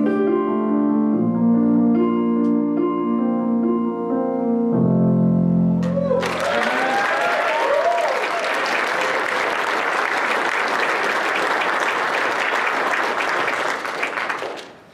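Piano chords ending a song on a long held chord. The congregation then breaks into applause about six seconds in, with a few voices calling out over the clapping, and it dies away near the end.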